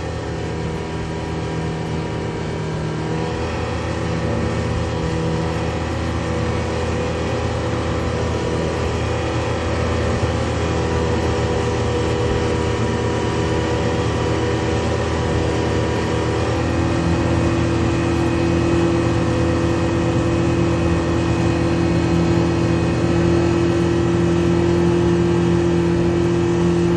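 An engine running steadily, its pitch shifting in steps about three seconds in and again past the middle.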